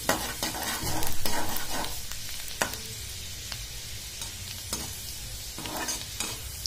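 Chopped ginger and garlic sizzling in hot oil in a kadai, stirred and scraped with a perforated metal spoon for the first couple of seconds. After that there is a steady sizzle with a few light clicks.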